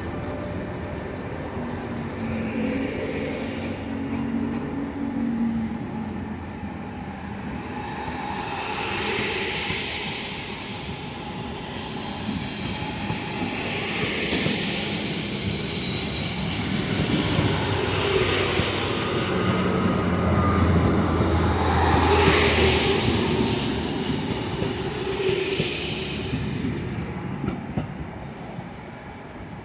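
SNCB (Belgian Railways) passenger coaches rolling along the platform, with a steady rumble of wheels on rail that swells about every four seconds. A thin, high wheel squeal sounds from about twelve seconds in until near the end.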